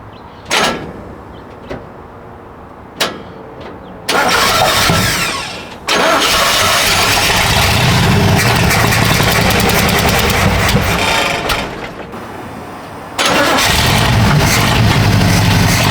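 Chevy C10 pickup's 350 small-block V8 being started after years of sitting: a few sharp clicks, then the starter cranks for about two seconds and the engine catches and runs loudly. About twelve seconds in it falls away for a moment and is running again a second later.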